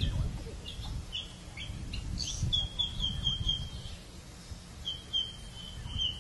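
A bird chirping: a few scattered short high chirps, then a quick run of repeated chirps about two and a half seconds in and another near the end, over a low rumble.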